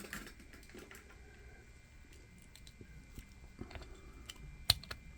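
Light handling noises: scattered soft clicks and crinkles, with one sharp click about four and a half seconds in.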